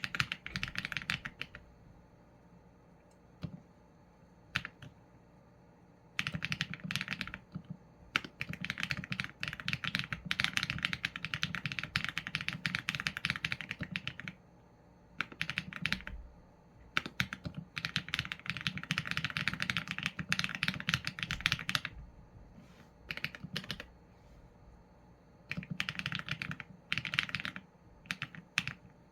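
Mechanical keyboard typing on a Qsenn A75 with Leobog Graywood v4 linear switches and PBT keycaps: quick runs of keystrokes broken by short pauses, with a lone key press here and there in the gaps.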